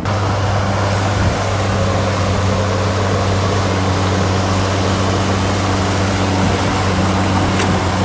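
Heavy diesel engine of an earthmoving machine running steadily at constant speed, with a deep, even hum.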